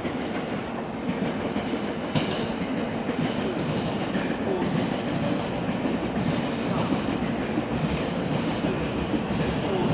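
JR West electric train running at a station platform, a steady running noise with scattered clicks from the wheels.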